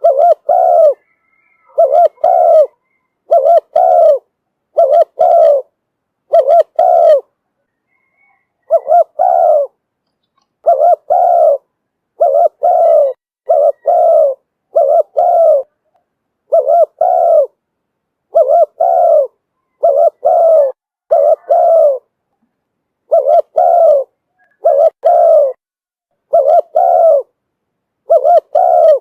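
Spotted dove cooing over and over, a decoy bird's call for luring wild doves: short coos, mostly in close pairs, about one group every second and a half, with a couple of brief pauses.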